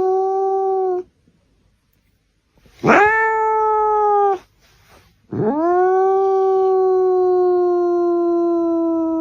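A dog howling: three long howls, each sliding up at the start and then held at a steady pitch. The last and longest lasts about four seconds and sinks slightly in pitch.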